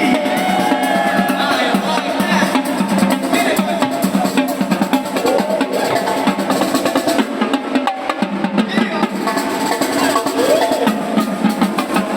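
Live drumming, with rapid snare rolls and hits, over loud amplified music.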